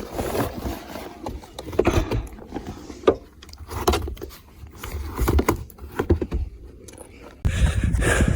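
Footsteps and rustling on a hiking trail: irregular scuffs and crunches about once a second, with a louder stretch of rustle near the end.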